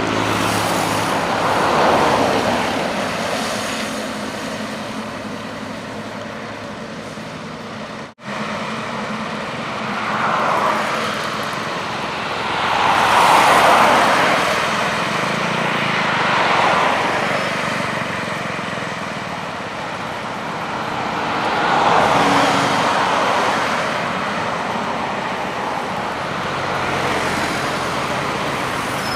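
Highway traffic, vehicles passing one after another, each swelling and fading, with a brief cut in the sound about eight seconds in.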